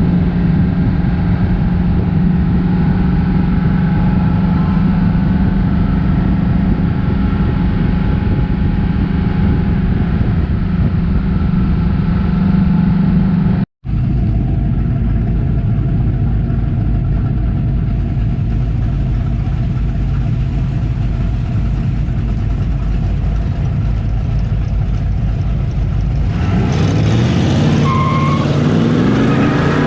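Car engine running with a steady, deep drone. About fourteen seconds in the sound breaks off for an instant. Near the end the engine revs, rising in pitch.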